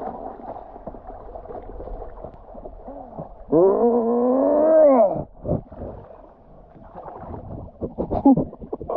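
A person's long, drawn-out yell, rising and then falling in pitch, starting about three and a half seconds in.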